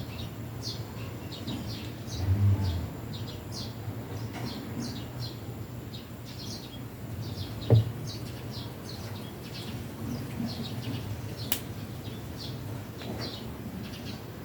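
Small birds chirping steadily in the background, many short high chirps a second, over a low steady hum. A dull thump about two seconds in and a sharp knock near the middle, the loudest sound, come from handling the work.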